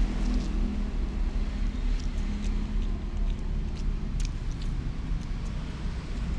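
A steady low engine-like rumble with a faint hum line and scattered faint ticks.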